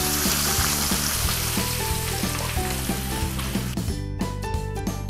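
Pounded shallots sizzling in hot oil in a wok as a spatula stirs them, fried until fragrant, with background music underneath. The frying stops suddenly near the end, leaving only the music.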